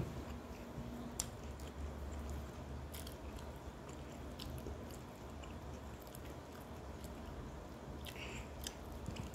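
A person chewing a mouthful of food, with a few faint clicks as her fingers pick food off the plate, over a steady low hum.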